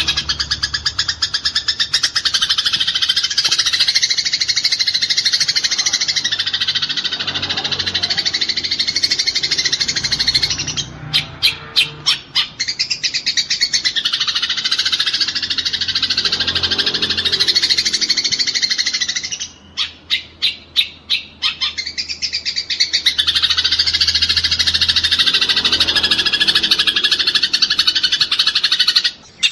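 Eurasian tree sparrows chattering in a fight: a dense, fast run of high chirps, twice breaking briefly into slower, separate chirps before the chatter picks up again.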